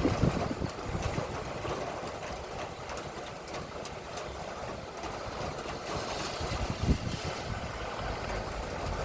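Steady light rain falling, a noisy hiss with scattered ticks of drops, over a low uneven rumble.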